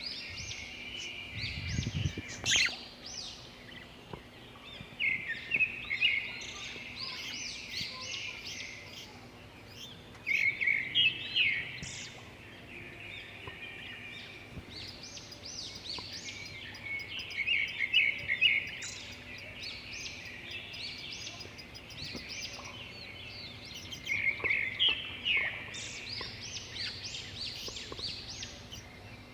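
Budgerigar chattering and warbling, a dense run of quick chirps that swells into louder bouts every few seconds. There is a low thump about two seconds in.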